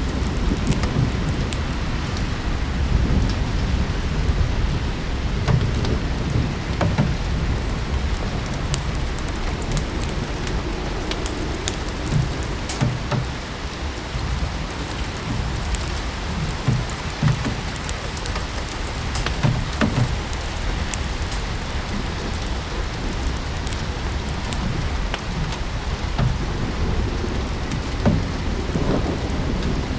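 Steady rain falling on a surface, mixed with the crackle and scattered pops of a wood fire in a fireplace, over a low rumble.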